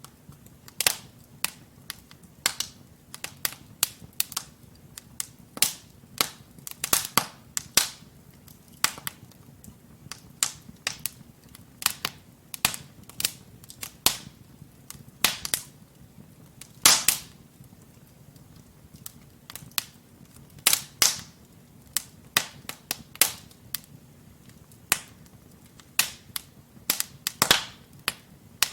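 Wood fire in a fireplace, crackling with irregular sharp pops of burning logs over a low, steady rumble of the flames.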